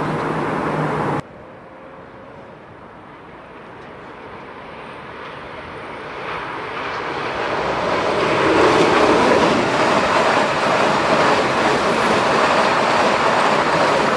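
A loud steady noise cuts off suddenly about a second in. An electric multiple unit then approaches along the platform track and runs past at speed, its rushing rail and running noise building up over several seconds and staying loud as the cars go by.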